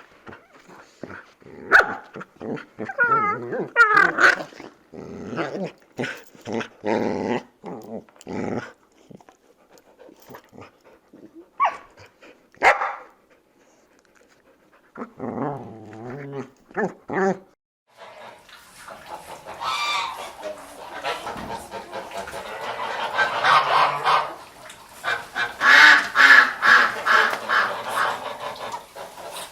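Dog barking and growling in separate short bursts. About eighteen seconds in, a denser, continuous chorus of animal calls takes over.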